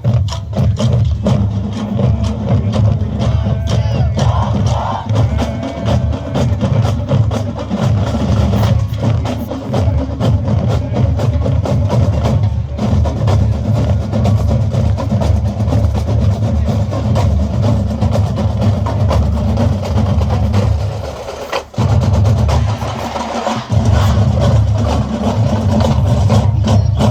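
Marching band percussion playing, with a heavy low drum sound and rapid sharp stick clicks throughout. The sound drops out briefly twice near the end.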